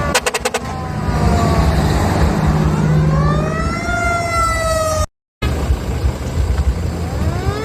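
Rooster crowing: long drawn-out crows, each rising quickly in pitch and then falling slowly, with a steady low hum underneath. The sound cuts out completely for a moment about five seconds in.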